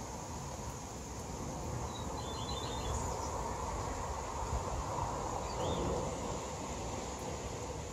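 Garden ambience: a steady hiss with a low rumble underneath. A bird gives a quick run of short chirps about two seconds in, and one more short call near six seconds.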